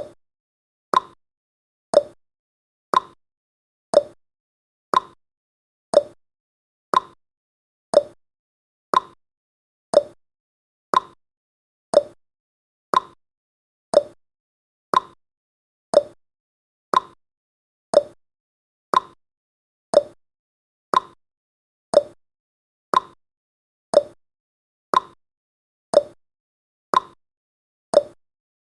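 Countdown timer's clock-tick sound effect: a short, sharp tick exactly once a second, steady throughout.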